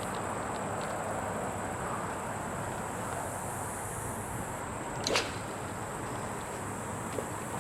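A steady outdoor background of wind on the microphone, with one quick swish about five seconds in: a fishing rod being cast.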